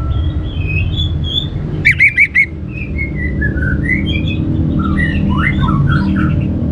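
Orange-headed thrush singing: a running string of short, varied whistled phrases that slide up and down, broken about two seconds in by a burst of four loud, sharp notes in quick succession, over a steady low hum.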